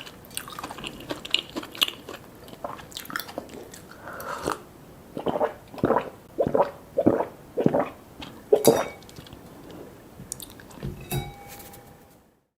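Close-miked mukbang eating sounds: crisp bites and wet chewing, with a run of strong chewing strokes a little under two a second through the middle, cutting off abruptly near the end.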